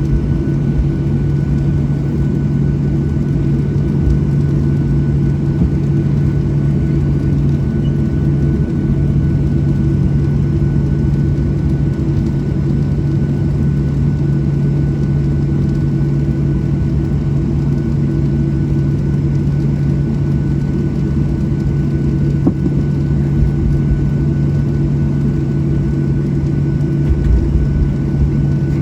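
Steady cabin drone of a Boeing 737-700 on the ground after landing: a loud low hum with a faint high whine over a rumble, unchanging throughout.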